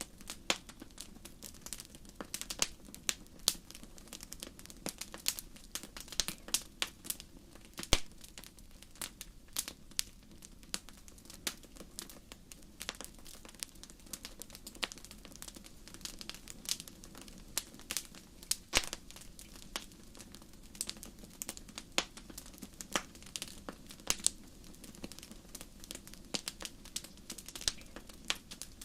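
Fire crackling: irregular sharp pops and snaps, several a second, over a low steady hum.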